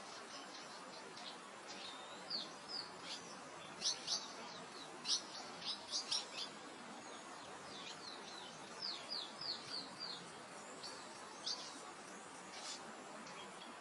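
Small birds chirping in quick, short, high notes over a steady soft hiss of wind through grass. The chirps come in clusters, busiest in the middle and again about two thirds through.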